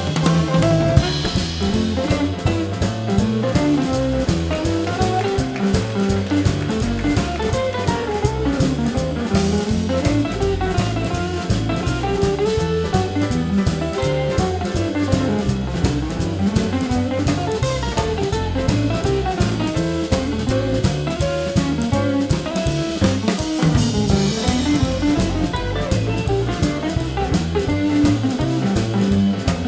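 Live jazz sextet playing an instrumental passage: drum kit and bass keeping time under a moving melodic solo line.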